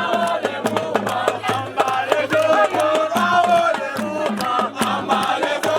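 Group of voices chanting and singing together over rapid, loud percussion strikes, as festival music.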